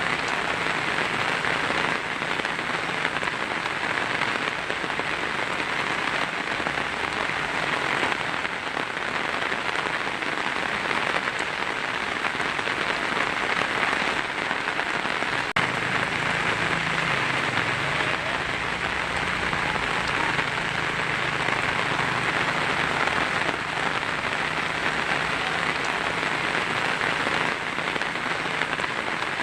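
Heavy rain drumming steadily on a tin roof, a dense, even patter without let-up.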